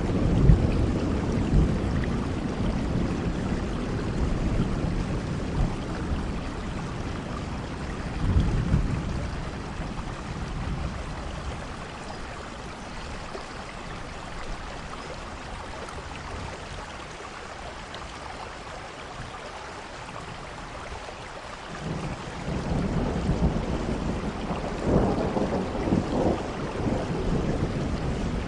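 Steady rain with rolling thunder. A rumble dies away at the start and a short roll comes about eight seconds in. Things ease off for a while, then another long rumble builds about three-quarters of the way through and carries on to the end.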